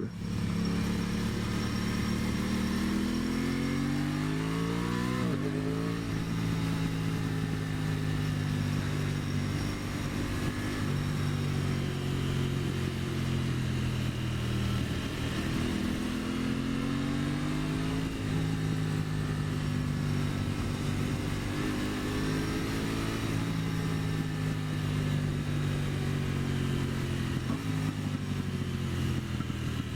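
2023 Aprilia Tuono 660's parallel-twin engine running under way. The revs rise over the first few seconds and drop sharply with a gear change about five seconds in, then hold fairly steady. They dip and pick up again around the middle, and ease off once more near the end.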